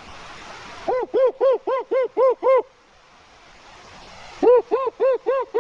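A blown horn sounding in two quick runs of short toots, about four a second, each rising and falling in pitch, to scare off bears. Steady rain hiss fills the gaps between the runs.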